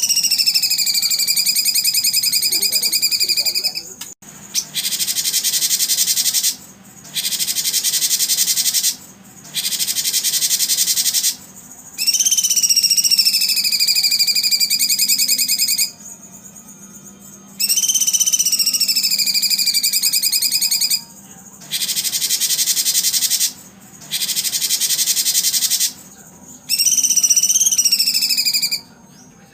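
Recorded songbird-training sounds: long whistled bird calls that fall in pitch and then hold steady, alternating with bursts of rapid, high, insect-like buzzing, each a few seconds long with short gaps between.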